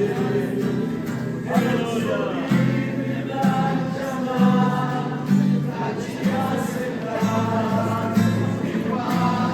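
Christian worship music: singing voices over instrumental accompaniment with held bass notes changing every second or so.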